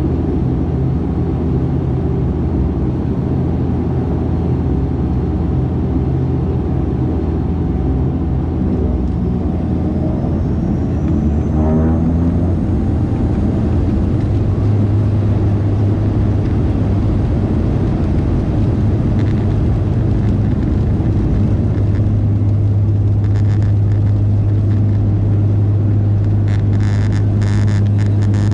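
Dash 8-400 turboprop engines and six-bladed propellers heard inside the cabin. About twelve seconds in the pitch rises and settles into a steady, slightly louder low drone as power comes up for the takeoff run, with some cabin rattling near the end.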